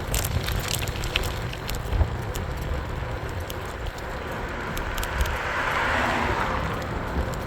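Riding noise from an e-bike: wind rumbling on the microphone over tyre and road noise, with scattered small clicks and ticks. A hissing whoosh swells and fades about five to seven seconds in.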